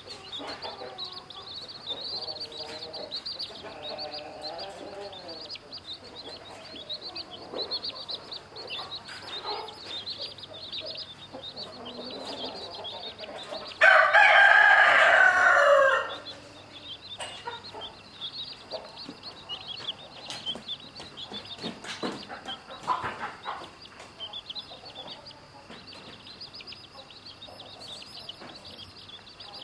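Chicks peeping constantly, with a hen clucking in the first few seconds. About halfway through, a rooster crows once, loudly, for about two seconds.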